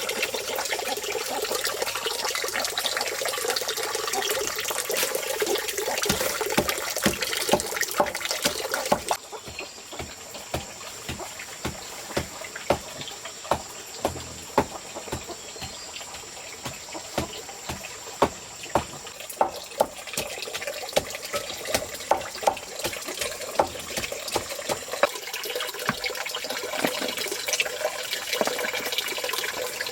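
Running water as a steady hiss, with many irregular sharp knocks and clicks over it. The water sound drops abruptly about nine seconds in and builds back up from about twenty seconds.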